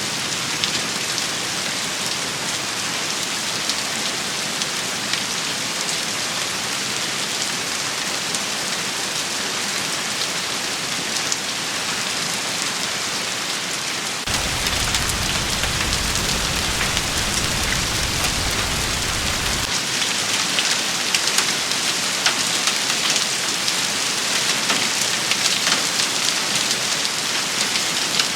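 Steady rain shower pattering on surfaces, with scattered sharper drop hits. About halfway through, a low rumble comes in for several seconds, and the rain grows slightly louder from then on.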